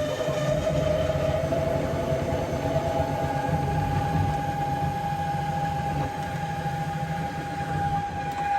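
Bambu X1 Carbon 3D printer running a print: its motors give a steady whine whose pitch shifts in the first few seconds and then holds, over a low hum that pulses on and off.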